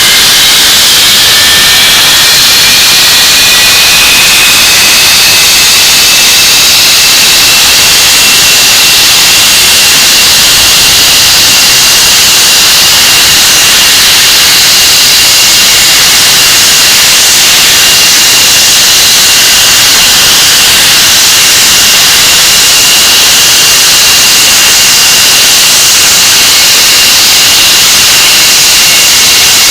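English Electric Lightning's Rolls-Royce Avon turbojet engine running loud on a ground run. Its whine rises in pitch over the first few seconds as it spools up, then holds steady under a heavy rushing roar.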